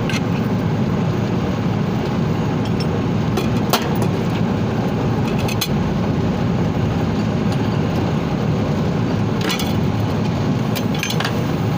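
Steady low drone of nearby running machinery, with a few sharp metallic clicks and taps from tools on the compressor.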